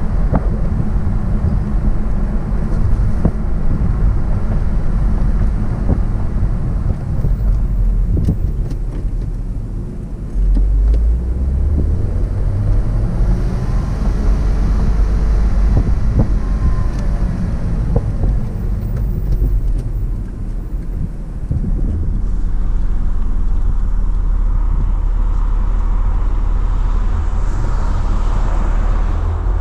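2001 Porsche Boxster's flat-six engine and tyre and road noise heard from inside the open-top cabin while driving. The engine eases off and picks up again a couple of times.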